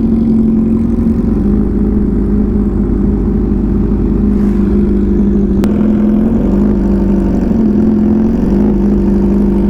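Yamaha R6's inline-four engine running at a steady speed while riding, a held, even hum over a low rumble.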